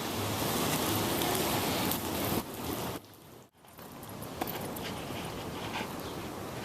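Steady hurricane rain pouring down, an even hiss with scattered drop ticks, briefly cutting out about three and a half seconds in.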